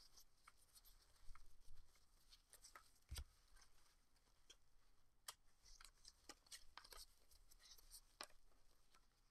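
Faint, scattered clicks and short rustling swishes of trading cards being handled and slid past one another one at a time.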